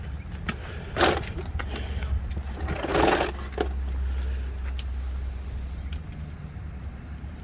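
Steady low engine hum, like a vehicle idling. Two short scraping or rustling bursts come about one and three seconds in, with a few light clicks.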